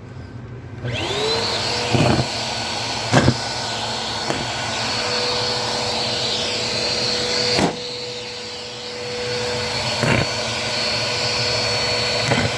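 Bissell vacuum cleaner switched on about a second in, its motor spinning up to a steady whine, with a few sharp clacks as it runs over the carpet.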